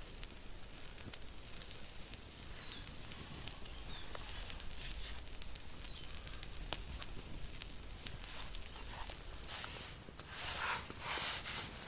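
Campfire crackling, with scattered sharp pops over a steady hiss. A few short high chirps come in the first half, and a louder rustling comes near the end.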